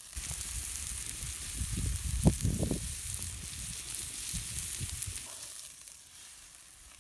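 Sausage, onion and rye bread sizzling in butter and water in a frying pan, with low rumbling bumps through the middle; the sizzle dies down about five and a half seconds in.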